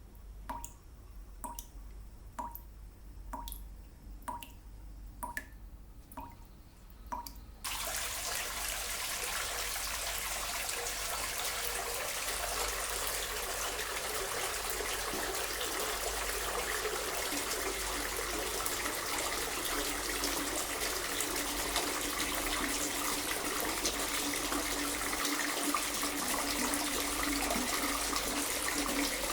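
Water dripping steadily, about one drop a second, then a tap suddenly turned on and water running steadily into a sink or tub.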